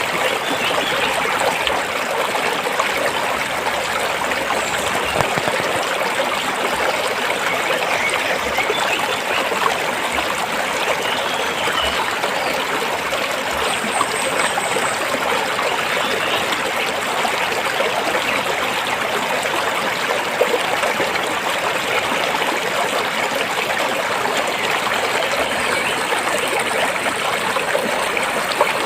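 Stream water flowing and splashing over rocks, a steady rushing with fine trickling detail.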